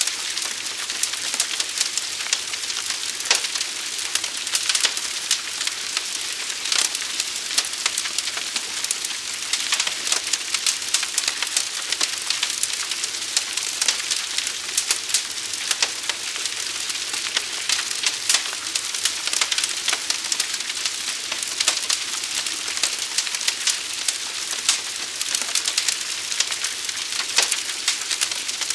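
Fire burning: a steady high hiss with frequent sharp crackles and pops at irregular moments.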